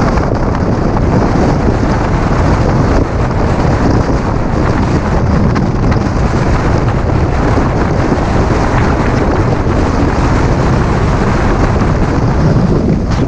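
Strong mountain wind in a snowstorm blasting the microphone: a loud, steady rumble of wind noise.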